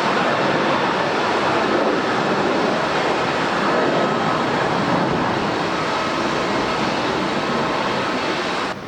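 Jet airliner engines running, a loud steady roar with a faint whine through it. It cuts off suddenly near the end, leaving a quieter hum.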